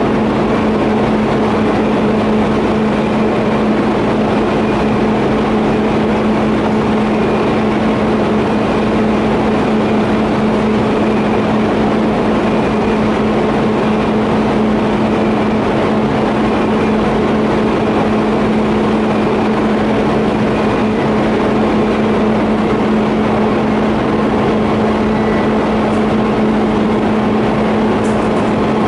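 TIG welding on steel pipe fittings: a steady electrical hum with a hiss, running unbroken at a constant level.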